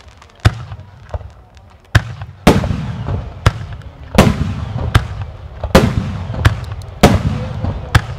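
Starmine fireworks: aerial shells launching and bursting in quick succession, a string of sharp bangs a little more than one a second, each trailing off in a low rumble.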